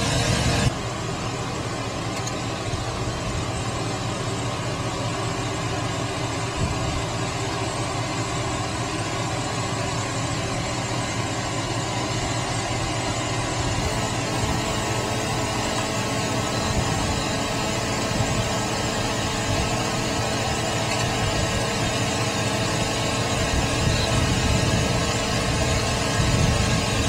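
Steady road and engine noise inside a car's cabin while driving.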